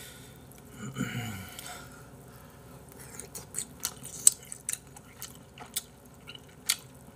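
Close-miked chewing of tteokbokki rice cakes: a run of wet mouth clicks and smacks, with a short vocal sound about a second in.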